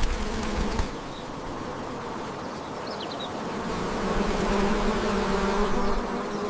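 Bees buzzing in a steady drone that dips about a second in, swells again and then cuts off abruptly.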